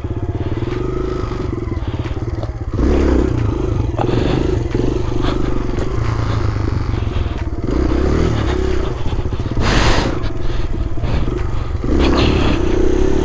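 Single-cylinder four-stroke Kawasaki KLX pit bike engine running under a rider, the throttle opened up about three seconds in, again around eight seconds and near the end. A short burst of hiss about ten seconds in.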